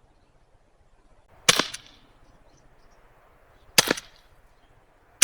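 Two sharp shots from a .50 caliber Mercury Rise TR 50 air gun, about two and a half seconds apart, fired at cans, with a third shot right at the end.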